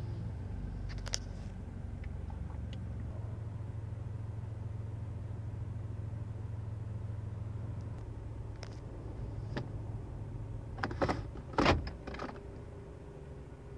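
A 2008 Toyota Corolla's four-cylinder engine idling steadily, heard from inside the cabin, at the steady idle of about 850 to 900 rpm that the relearn has restored. Near the end a burst of loud clicks comes as the automatic gear selector is moved, and the engine note changes after it.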